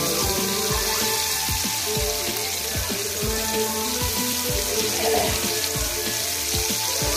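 Pieces of fish deep-frying in bubbling oil in a pan, sizzling steadily, under background music with a steady beat.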